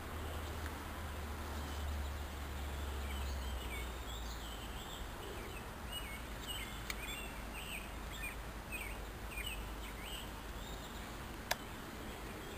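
Outdoor ambience: small birds chirping repeatedly over a steady low rumble, with one sharp click near the end.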